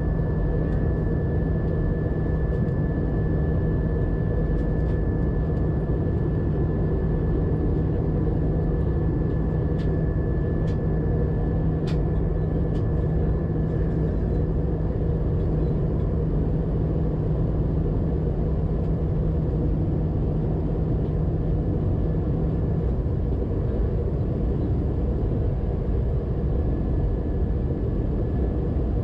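Steady cabin noise inside an Airbus A320-212 in flight, the rumble of its CFM56 engines and the airflow over the fuselage. A thin steady whine fades about halfway through, and a low hum stops about three quarters of the way in.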